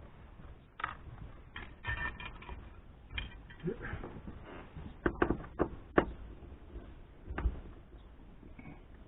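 Car interior trim being worked loose by hand: plastic scraping and a short squeak, then several sharp clicks and knocks, the loudest around five to six seconds in and again near seven and a half.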